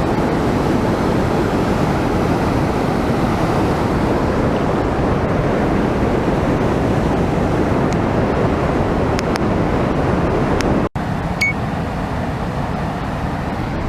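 Waterfall pouring, a loud, steady rush of water. It breaks off for an instant about eleven seconds in and comes back a little quieter.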